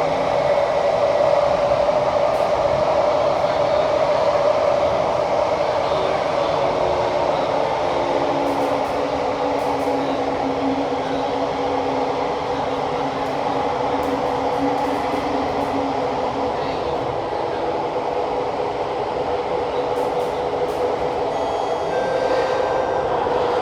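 Kawasaki–CRRC CT251 metro train heard from inside the car while running, a steady ride rumble under a strong whine that slowly falls in pitch, with a second, lower tone beneath it. This is the weird high-pitched noise this train set makes.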